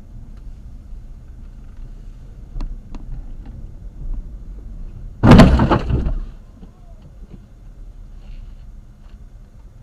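Low road rumble heard from inside a moving car, then about five seconds in a sudden loud crash bang lasting about a second, typical of a collision.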